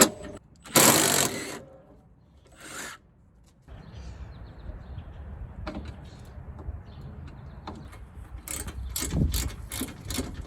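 Hand tools on the bolts of a Jeep Comanche's upper radiator core support: a loud burst of noise about a second in, then a run of sharp metallic clicks and knocks near the end.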